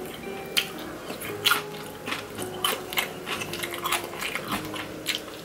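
Close-miked chewing of crispy Chicago deep-dish pizza crust: sharp, crisp crunches about three times a second.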